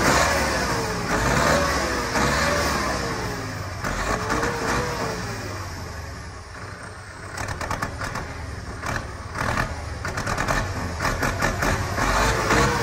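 Erkunt Haşmet 110 tractor's Perkins diesel engine being revved in repeated throttle blips, its pitch rising and falling several times. Around the middle it drops lower, then runs with a rapid series of sharp knocks before revving up again near the end.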